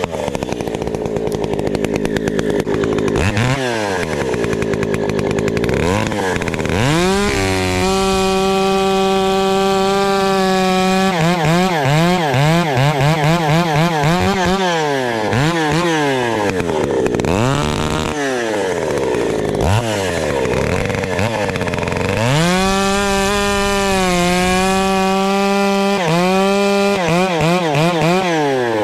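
Two-stroke chainsaw run in wood, revving up and down repeatedly. It is held at high speed for a few seconds twice, with dips in pitch between.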